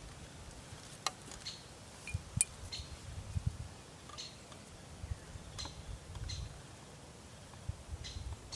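Scattered light clinks and taps of small hard objects: about a dozen short ticks, each with a brief ring, over a low steady rumble.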